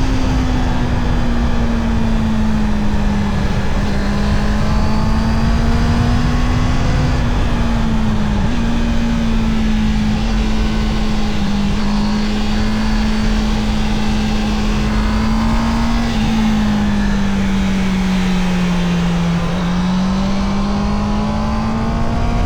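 Honda CB650R's inline-four engine running hard at fairly high, steady revs while riding, its pitch easing up and down with the throttle and stepping briefly twice. There is a low rush of wind noise underneath.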